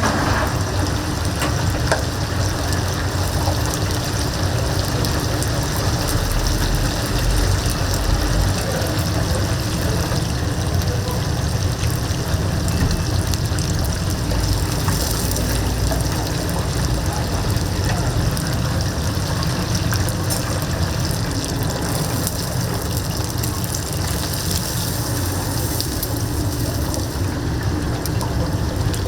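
Whole chickens deep-frying in a vat of hot oil: a steady, even sizzle.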